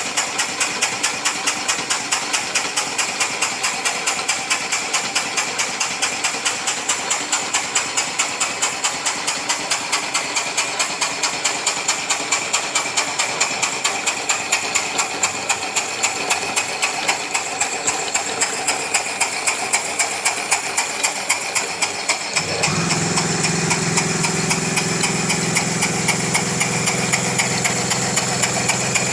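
Small model steam engine running steadily, its exhaust puffing in an even beat of about four to five a second, after a restoration with new piston rings and slide-valve pins. About 22 seconds in, a steady lower hum joins in.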